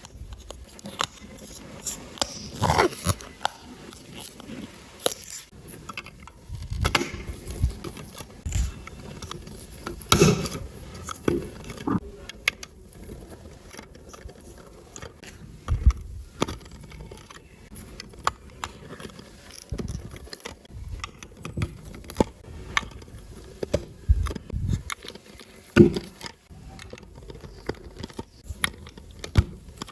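Plastic LEGO bricks and pieces being handled and pressed together: irregular clicks, taps and light scrapes, a few of them sharper knocks.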